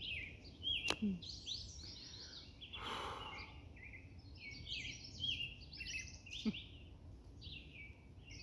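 Several songbirds singing at once, a dense chorus of overlapping chirps and trills. Two sharp clicks, about a second in and near six and a half seconds, and a brief burst of noise about three seconds in, over a steady low rumble.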